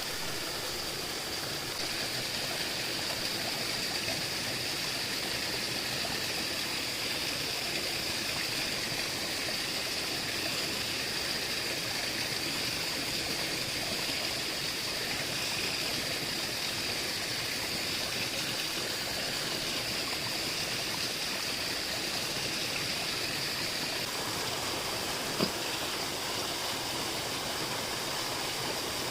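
Steady rushing of a flowing stream, with one short tick about 25 seconds in.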